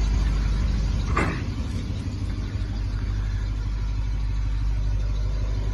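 Low, steady rumble of an idling vehicle engine, with one brief short sound about a second in.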